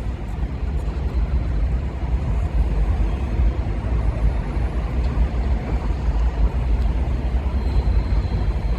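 Alstom R160A subway train on the track, a steady low rumble of wheels and running gear with no clear motor whine.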